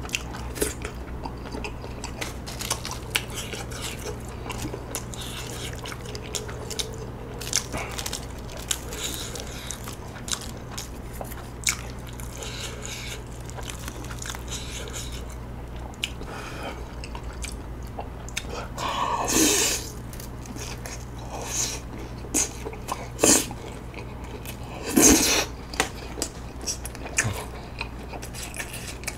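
Close-miked chewing and biting of chewy rice cakes (tteokbokki), with small wet mouth clicks and the odd tap of chopsticks, over a steady low hum. Two louder, longer sounds come about two-thirds of the way through and again near the end.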